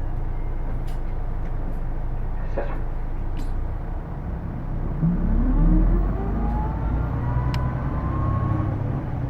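A Hino Blue Ribbon II city bus, heard from inside, with its diesel engine running. From about five seconds in the bus picks up speed, and a whine rises steadily in pitch with it. The uploader calls this the bus's distinctive transmission sound, one that sounds almost like an automatic gearbox.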